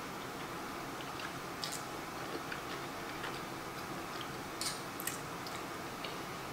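Close-miked chewing of fettuccine alfredo: small, irregular wet mouth clicks over a steady hiss, with a few sharper clicks, one between one and two seconds in and two more after about four and a half seconds.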